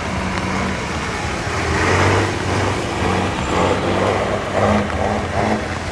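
Truck engine running steadily, with a dense rushing noise around it.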